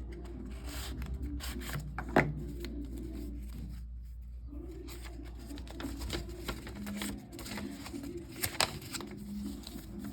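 Handling noise: rubbing and rustling of objects, with two sharp clicks, one about two seconds in and one about eight and a half seconds in, over a steady low hum that stops about six and a half seconds in.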